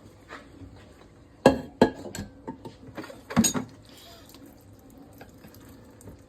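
Cooked macaroni being drained at a kitchen sink: water splashing and dripping, with a pot knocking sharply three times, the loudest about a second and a half in and again at three and a half seconds.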